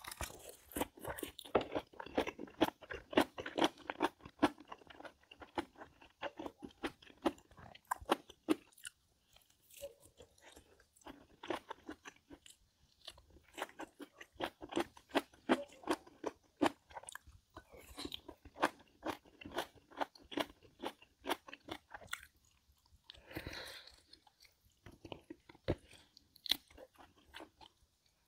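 A person chewing and crunching food close to the microphone: dense runs of wet, crunchy clicks come in bursts with short pauses between bites.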